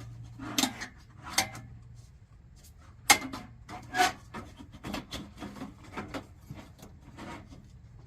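Clicks, knocks and rubbing of heater parts being handled and fitted by hand, with four sharp knocks in the first half and lighter taps after.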